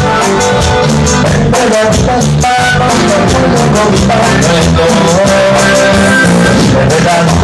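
Upbeat Latin tropical band music with a steady dance beat, drums and guitar under a melodic lead line.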